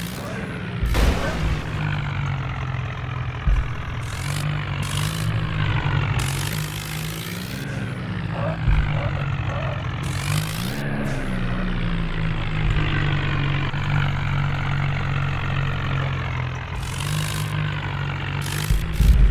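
Diesel tractor engine running steadily, its pitch dipping briefly a couple of times.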